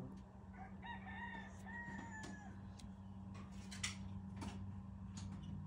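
A rooster crowing once, faintly: a single cock-a-doodle-doo of several linked notes lasting about two seconds and ending in a falling note.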